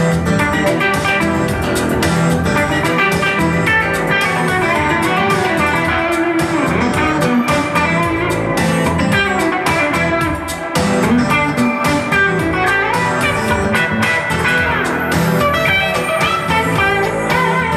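Live band playing an instrumental passage led by electric guitar, with bass guitar and steady percussion hits underneath.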